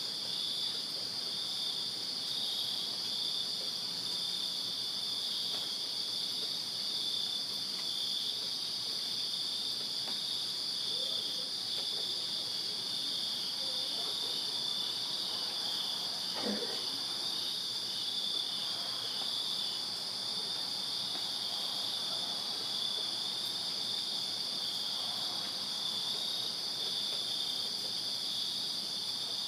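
Crickets chirping in a dense night chorus: a steady high trill with a pulsing, slightly lower chirping beneath it. A brief faint sound passes about halfway through.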